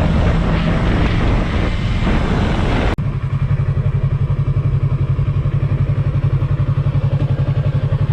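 Yamaha R3's parallel-twin engine through its stock exhaust. For about three seconds it is heard on the move, mixed with wind noise; after a sudden cut it runs steadily at low speed, as at idle, with an even pulsing beat.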